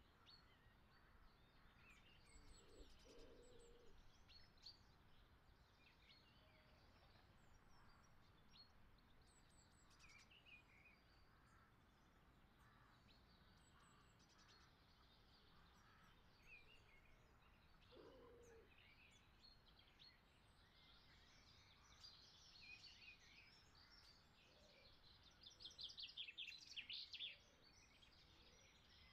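Near silence, with faint bird chirps here and there that come a little more often near the end.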